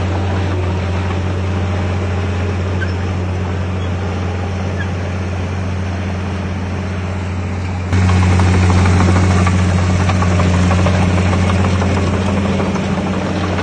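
Heavy earthmoving machinery's diesel engine running steadily with a deep, even drone, which turns abruptly louder about eight seconds in.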